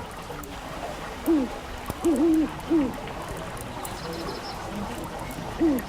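A bird giving low hooting calls in a group of about four notes, one falling note and then a double note and another falling note, starting about a second in and again near the end. Faint crackles of a fireplace fire underneath.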